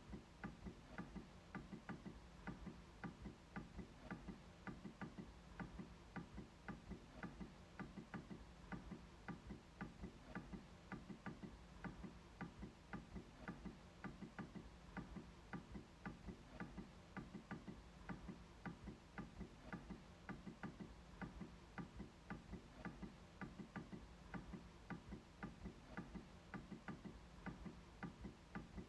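MacBook trackpad clicking over and over in a steady, faint rhythm of about three clicks a second.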